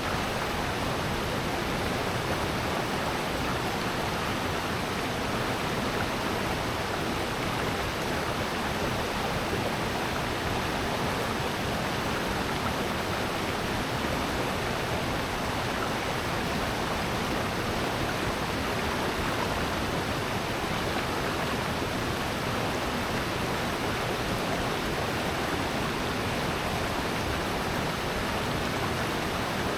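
Steady rushing of water in a valley stream, an even unbroken roar with no separate splashes.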